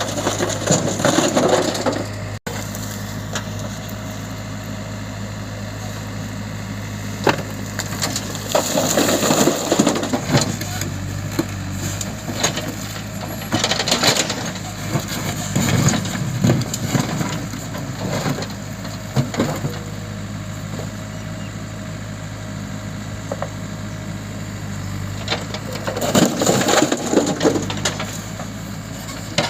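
Heavy diesel engine running steadily while a backhoe loader's bucket scoops and dumps loose material, giving irregular bursts of scraping and crashing every few seconds.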